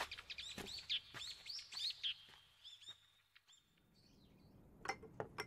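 Faint small birds chirping in quick, repeated short calls that thin out and stop about halfway through. A few sharp clicks follow near the end.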